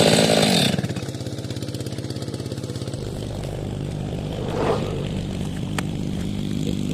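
STIHL MS 462 two-stroke chainsaw finishing a cut at full throttle, then dropping back to a steady, pulsing idle under a second in.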